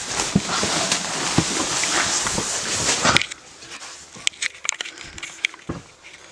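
Footsteps crunching and rustling through debris and litter on the floor, a dense crackling with many small clicks that stops suddenly about three seconds in, leaving scattered light clicks and creaks.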